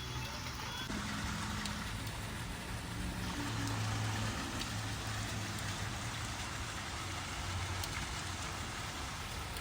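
Steady rain falling, an even continuous hiss, with a low hum underneath that swells and fades.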